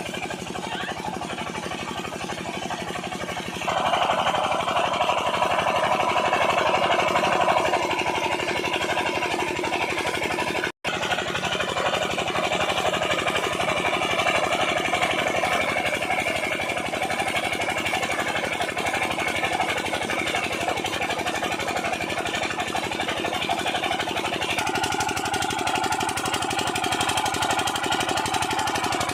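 An 8 hp single-cylinder diesel irrigation pumpset engine running steadily with a rapid, even beat. It is louder for a few seconds near the start and cuts out for an instant about eleven seconds in.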